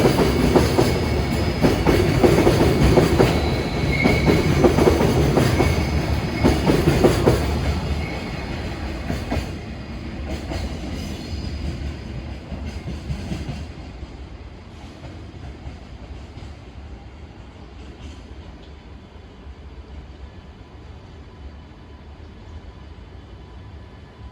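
Freight train's container wagons rolling past, wheels clacking over the rail joints; then the train draws away and the sound fades over several seconds to a low steady background.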